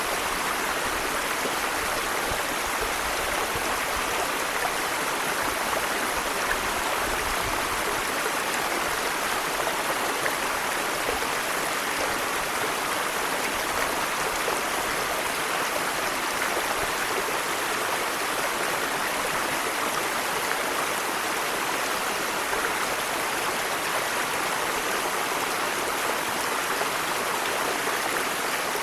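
Waterfall: water pouring and rushing steadily, an even, unbroken sound of falling water.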